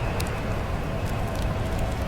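Wood fire crackling in a fireplace, with scattered sharp pops over a steady low rumble of winter ambience.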